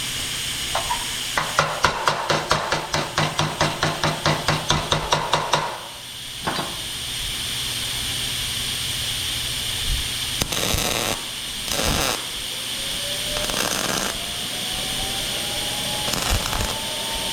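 MIG welder laying short stitch welds on sheet steel: a run of rapid bursts, about four a second, for about four seconds. Scattered clicks and brief bursts follow, and a slowly rising whine near the end.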